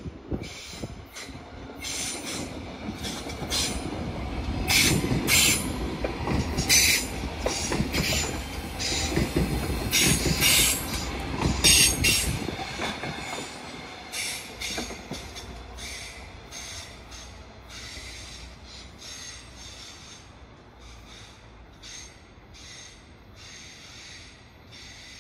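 Passenger train moving through the station, its wheels on the rails giving a run of high, shrill squeals over a low rumble. It grows loudest about ten seconds in, then fades steadily.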